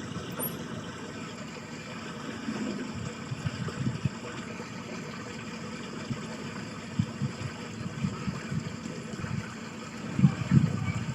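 Water running in a small ditch stream: a steady rush with irregular low gurgles and bumps, which come thicker near the end.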